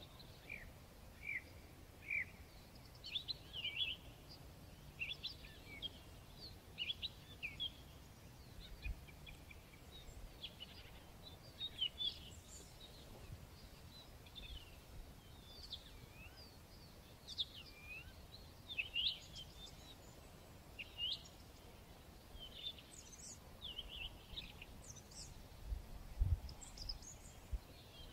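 Small birds singing: short, varied high chirps and whistled notes, one after another, over a faint steady background hiss. A low thump comes near the end.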